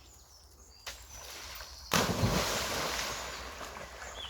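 A dog diving into a canal: a sudden loud splash about two seconds in, which fades away over the next two seconds.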